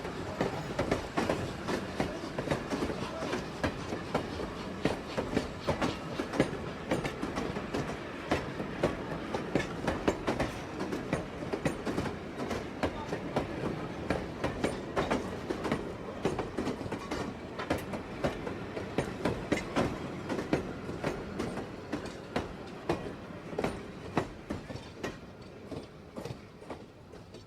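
Train cars rolling by, wheels clattering over the rail joints with a steady rumble, fading away near the end.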